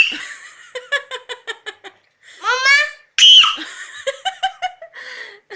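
A baby's high-pitched giggling and squealing: a quick run of short laughing pulses about a second in, followed by squeals that rise in pitch.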